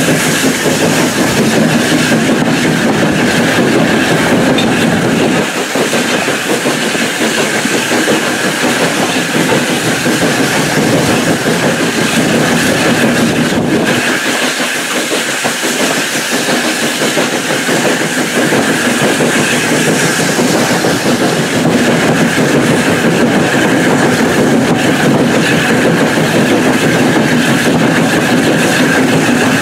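Passenger carriage of a steam heritage train running along the line, heard from an open window: steady wheel-on-rail noise mixed with rushing air.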